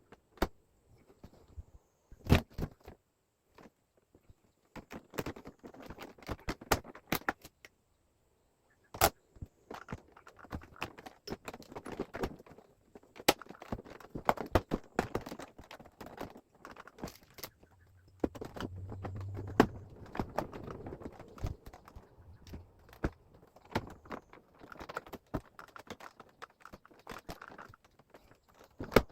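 Irregular clicks, taps and rattles of plastic parts and tools being handled as a wall-mounted air conditioner is taken apart, with a few sharper knocks and a brief low hum about two-thirds of the way through.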